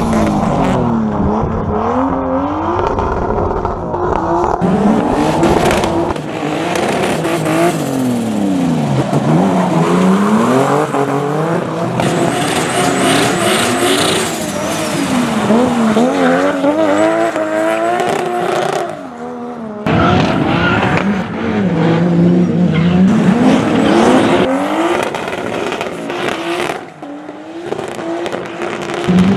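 Rally car engines revving hard, the pitch climbing through each gear and dropping on the lift-off, over and over. The sound changes abruptly about six seconds in and again near twenty seconds, as one car gives way to another.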